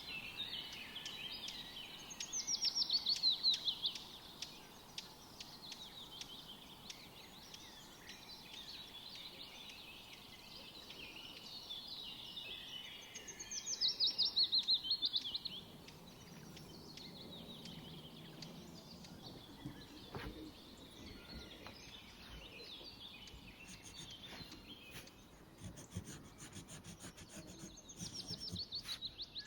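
Songbirds singing and chirping, with a loud fast trill of rapidly repeated falling notes three times, roughly every twelve seconds. Faint light clicks come in the later part.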